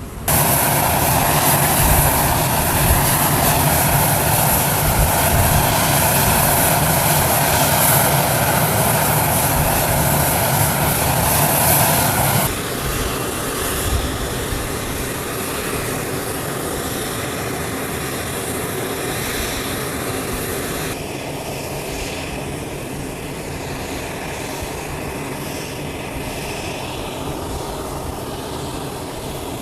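Engine noise of a C-17 Globemaster III transport aircraft, a loud steady rush. It steps down abruptly twice, about halfway through and again near two-thirds of the way in, where the footage changes shot.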